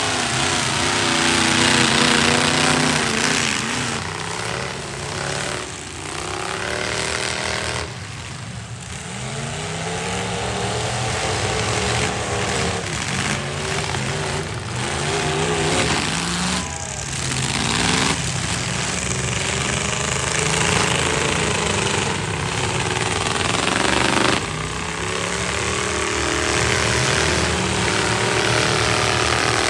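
Several loud, unmuffled truck engines revving up and down at once, over and over, as the demolition derby trucks accelerate and ram one another.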